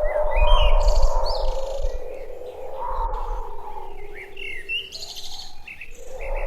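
Small birds chirping in two quick flurries of short, high notes, over a steady lower hum and a deep rumble.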